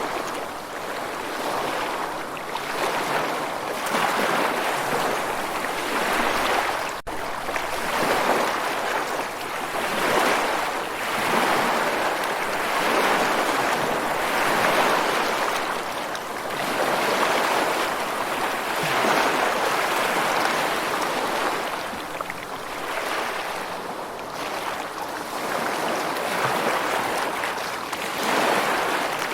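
Ocean waves washing onto a shore: a steady rushing surf that swells and falls back every few seconds, with a momentary break in the sound about seven seconds in.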